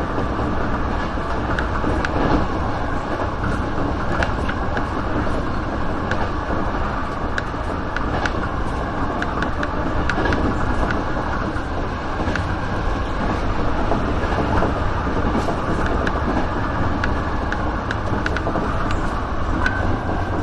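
Sanyo Electric Railway 3000-series electric train running along the line, heard from the driver's cab: a steady rumble of wheels on rail with scattered faint clicks.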